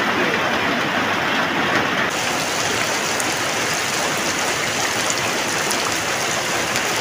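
Steady rain, first dripping off a corrugated roof edge, then falling on the shallow water of a flooded field, with a change in the sound about two seconds in.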